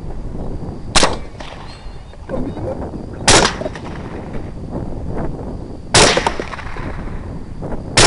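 Four suppressed rifle shots, spaced about two to two and a half seconds apart, over a steady wind rumble on the microphone.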